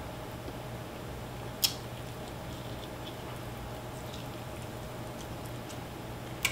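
A person chewing and pulling meat off a spicy fried chicken drumstick, with faint wet mouth clicks and two sharp clicks, one about two seconds in and one near the end, over a steady low hum.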